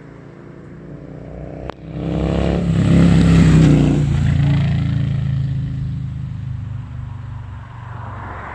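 Victory Gunner motorcycle's V-twin running through a Miller exhaust: a low, even note at first, a sharp click just under two seconds in, then the engine swells to its loudest about three seconds in and slowly dies away.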